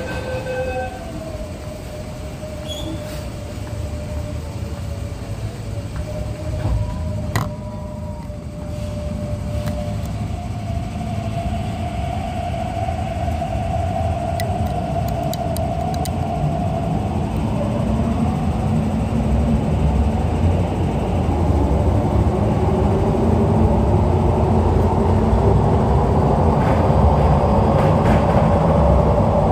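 MTR East Rail line R-Train electric multiple unit running, its electric motor whine shifting in pitch and the rumble growing steadily louder through the second half.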